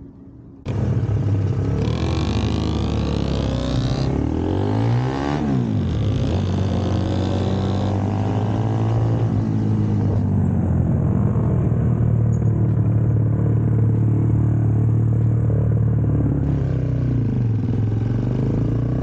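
Small four-stroke motorcycle engine running under way. It starts abruptly just under a second in, and its pitch drops and climbs again around five seconds in as it slows and accelerates. Otherwise it holds a steady cruising drone.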